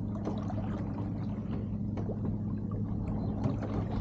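Water gurgling and lapping along a sailboat's hull, with small irregular splashes and ticks over a steady low hum.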